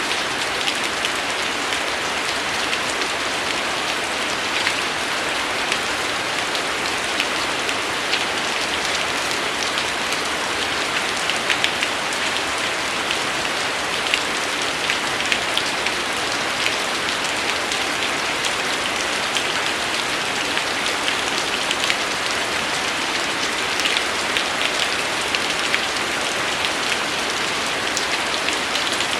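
Steady rainfall, an even hiss with many distinct drops ticking and splattering on a surface.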